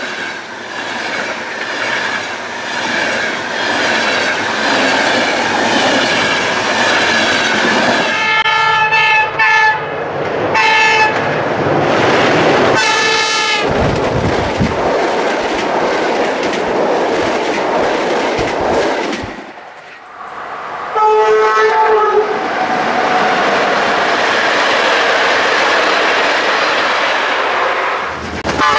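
Passenger trains passing close by at speed, with a loud, steady rush of wheels on rail. A locomotive's multi-tone horn sounds several blasts about a third of the way in, and again about three-quarters through.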